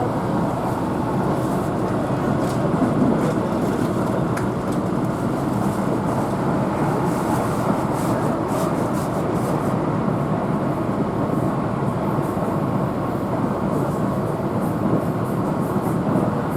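Interior running noise of a Keihan electric train travelling at speed: a steady rumble of wheels on rail with faint light clicks.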